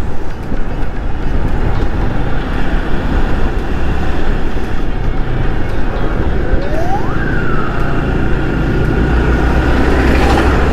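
Yamaha R15 V3 single-cylinder motorcycle running at highway speed, with wind rushing over the helmet microphone. About six seconds in, a siren rises sharply in pitch, then holds a steady high tone for about three seconds.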